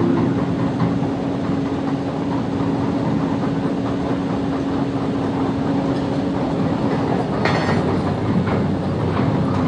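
Excavator running steadily at construction work, with a dense mechanical clatter and a steady hum that stops about seven seconds in. A short harsh burst of noise follows soon after.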